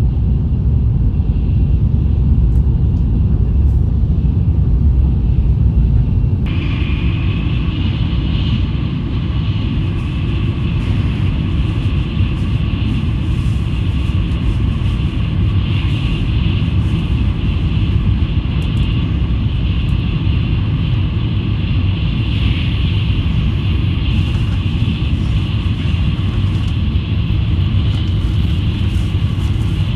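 Shinkansen high-speed train running at speed: a steady, loud low rumble. About six seconds in, a higher hiss suddenly joins it and then holds.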